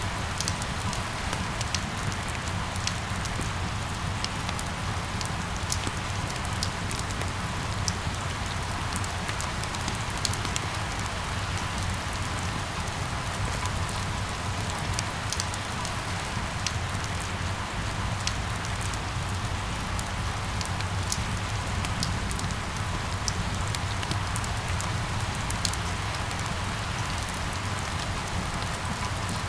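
Steady rain falling: an even hiss scattered with sharp ticks of single drops, over a low rumble.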